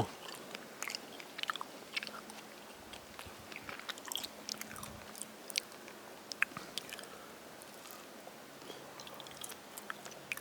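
A person chewing close to the microphone: soft, irregular wet clicks and smacks of the mouth working on food.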